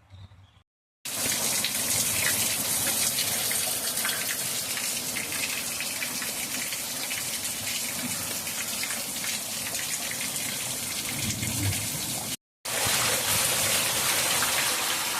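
Heavy rain pouring down, a loud steady hiss that starts abruptly about a second in, with a brief dropout about twelve seconds in.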